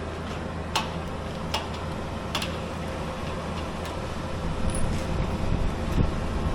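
Steady low mechanical hum with three sharp clicks in the first half, then a rougher, louder rumble building over the last two seconds.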